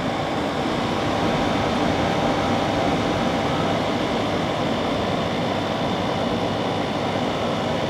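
2009 General Electric 12,000 BTU air conditioner running, a steady rush of fan air with a faint steady hum. The unit is cooling properly: its coil is ice cold from top to bottom.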